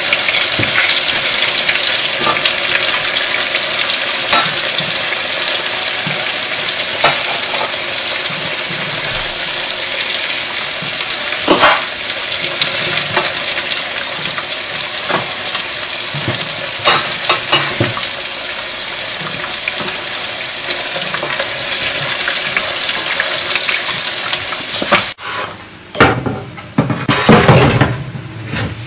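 Breaded chicken nuggets frying in hot oil in a pot: a loud, steady sizzle, with scattered clicks of a fork against the pot as the pieces are turned. Near the end the sizzle cuts off and a few knocks follow as a baking tray is handled at an oven.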